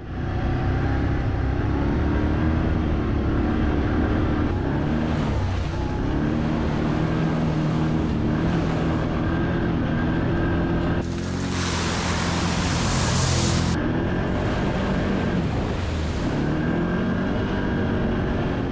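Can-Am Outlander 570's V-twin engine running under load on a trail ride, its pitch rising and falling with the throttle. A loud rushing hiss rises over it from about eleven seconds in for about three seconds.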